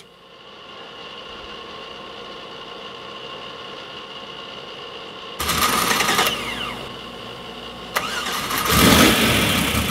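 A 349 cu in LS V8 with a solid roller cam being started on an engine dyno. A steady hum is followed by a short loud burst of starting about five seconds in. A second start comes near eight seconds, sharp at first, then climbing in revs to a loud peak and easing off.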